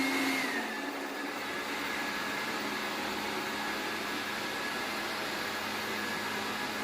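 Robot vacuum cleaner running: a steady whirring buzz with a low hum and a thin high whine, the whine rising briefly in pitch near the start and settling back within the first second.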